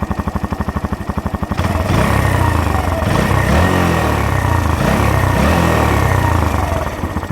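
Sinnis Stealth motorcycle engine idling with even exhaust pulses, then revved up repeatedly from about a second and a half in, the pitch rising and falling, before dropping back to idle near the end. The exhaust has a hole banged into the thin pipe between its sections, which makes it blow a bit and sound louder than the stock exhaust.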